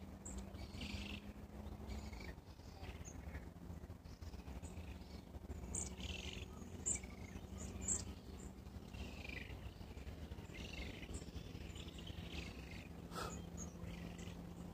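Birds calling, short scattered chirps and higher sharp notes every second or so, over a faint steady low hum.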